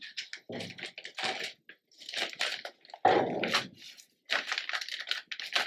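Hands rummaging through small craft embellishments: irregular light clicks, rattles and rustling as small pieces are picked up and moved about.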